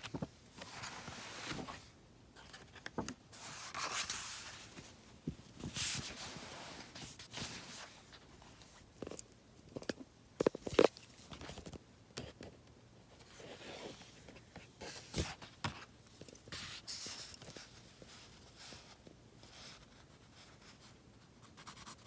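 Drawing strokes scratching on sketchbook paper, irregular and of varying length, with a few sharp taps in the middle.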